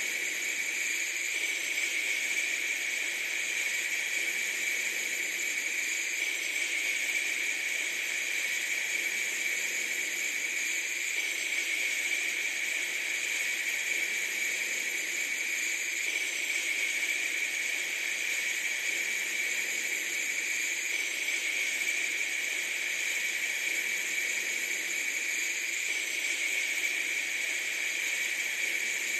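A steady, unchanging hiss with no breaks, strongest in the upper middle.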